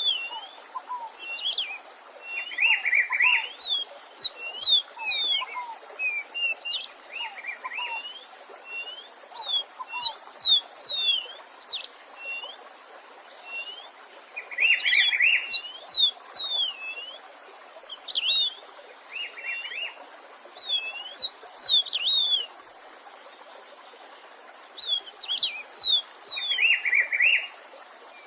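A songbird singing a repeated song of quick slurred whistles, many phrases ending in a short buzzy trill, each phrase a second or two long with short pauses between. A steady stream runs faintly underneath.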